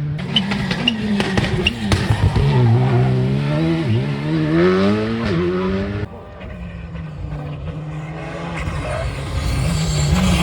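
Turbocharged rally car engine being driven hard, its pitch rising and dipping through throttle lifts and gear changes, with sharp turbo flutter chatter on lift-off. The sound drops suddenly about six seconds in, then builds again toward the end.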